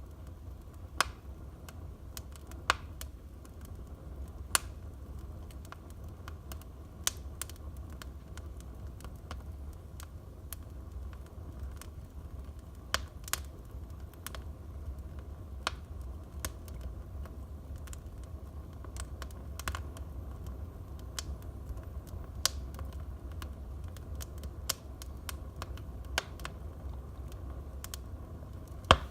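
Wood fire in a fireplace crackling, with sharp irregular pops over a steady low rumble. The loudest pop comes near the end.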